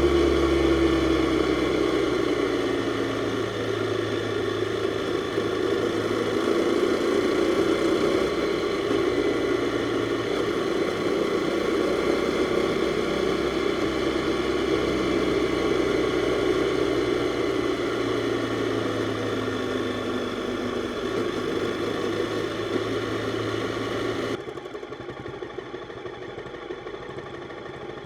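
Jawa 42's single-cylinder four-stroke engine running on the move. Its pitch falls in the first couple of seconds as it slows, then it holds a fairly steady note with slow rises and falls. Near the end the sound drops suddenly quieter and duller.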